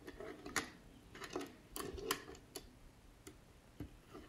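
Small LEGO plastic pieces clicking and tapping as they are handled and pressed onto a build: a scattering of light, irregular clicks.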